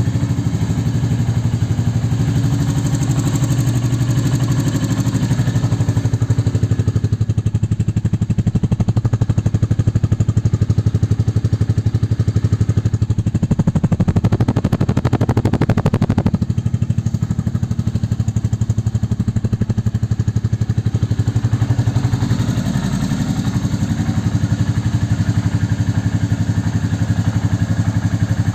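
Royal Enfield Classic 350 single-cylinder engine idling through its exhaust with an even, fast beat. About thirteen seconds in the revs rise briefly, then fall back to idle about three seconds later.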